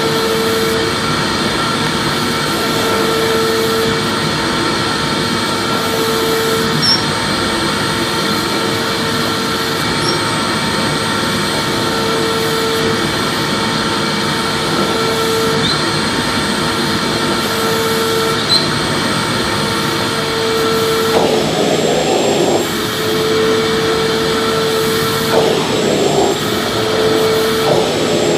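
Vacuum cleaner running steadily: a rush of air with a motor whine, and a hum that swells and fades about every two seconds. A few short bursts of rougher air noise come in the last third.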